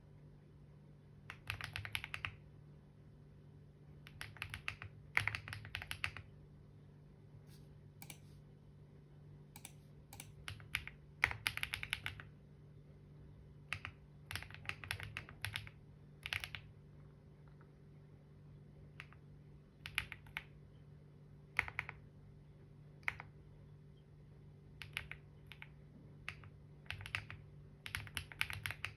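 Computer keyboard typing: quick runs of keystrokes lasting about a second, broken by pauses and single key presses, over a faint steady low hum.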